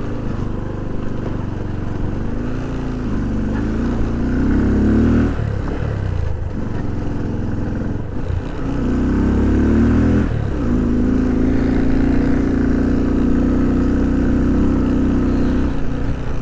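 A 150 cc motorcycle engine carrying two riders and luggage, accelerating through the gears: its pitch climbs, drops at a gear change about five seconds in and again about ten seconds in, then holds steady.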